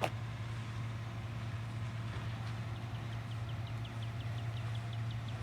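Rear-loader garbage truck running with a steady low drone. A sharp click comes at the very start, and a quick run of short high chirps, about four a second, sets in about three seconds in.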